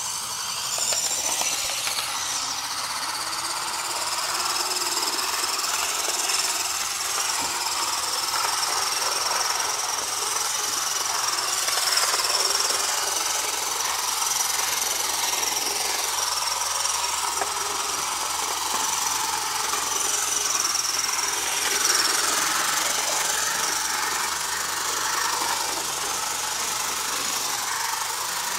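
HO scale model locomotive (CN 5075) running on its track, its drive wheels turned by rubber bands rather than gears: a small electric motor whines steadily at a high pitch over a rattling hiss of wheels on rail. The whine sinks slightly and drops away late on.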